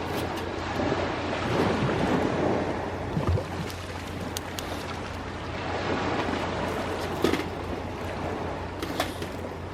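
Sea waves washing in and receding in slow swells, with a few sharp pops and crackles from a wood campfire.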